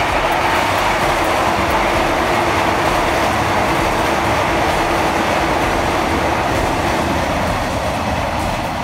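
Electric commuter train (KRL KfW 9000i multiple unit) passing at speed: a loud, steady rush of wheel and rail noise that eases a little near the end.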